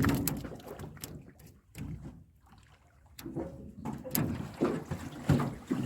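Water splashing and irregular knocks around a small boat, with a quieter spell about two seconds in.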